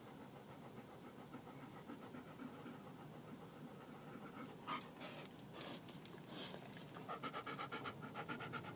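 Golden retriever panting, faint at first, then a quick, even rhythm that grows louder over the last couple of seconds. A brief scuffling sound about five seconds in.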